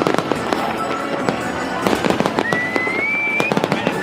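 Aerial fireworks display: a dense run of crackling cracks and bangs, with a rising whistle about two and a half seconds in that lasts about a second.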